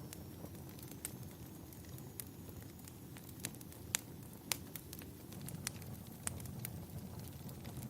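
Wood fire crackling in a fireplace: irregular sharp pops and snaps over a low, steady rumble of burning, the loudest pops about four seconds in.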